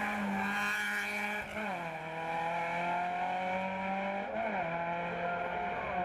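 Race car engine under way at a hill climb, holding a steady pitch, then dropping sharply about one and a half seconds in and slowly climbing again. A quick up-and-down flick in pitch comes near the end.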